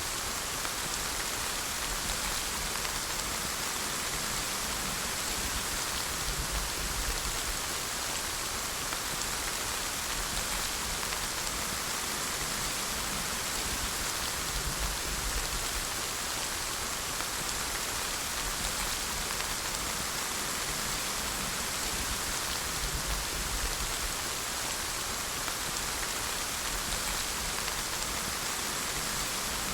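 Steady rain falling and pattering on surfaces, an even hiss that holds without change.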